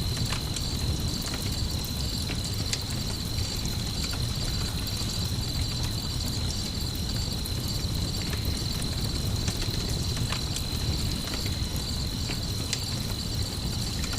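Night ambience of crickets chirping in a steady high, pulsing trill, with a campfire crackling in scattered sharp pops over a low, steady rumble.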